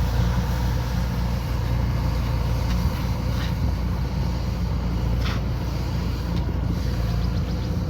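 Kubota combine harvester's diesel engine running steadily at working speed, a constant low engine drone with machinery noise over it.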